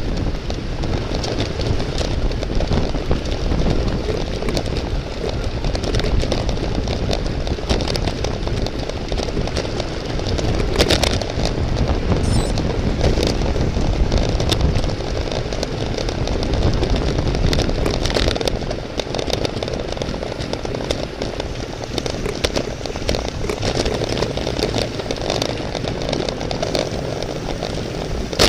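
Wind rushing over the microphone of a camera riding on a bicycle at race speed, with steady road rumble and scattered clicks and knocks.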